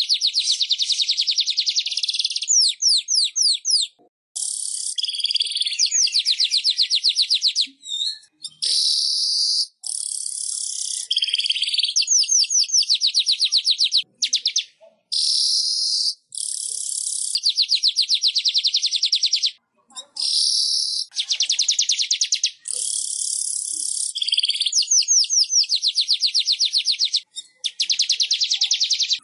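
Manyar (weaver bird) song: phrases of rapid buzzy trills and dry chattering notes, high-pitched, repeated every second or two with brief breaks. It is a masteran recording used to tutor songbirds.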